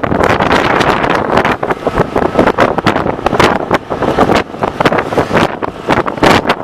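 Loud wind rushing and buffeting the microphone of a moving bike, with the ride's road noise underneath.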